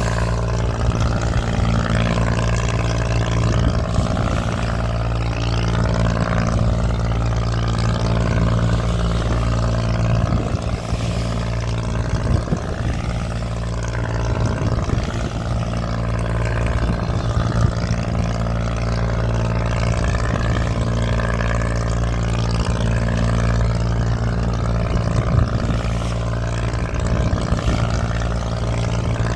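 Boat engine running at a steady speed under way, with water rushing along the hull.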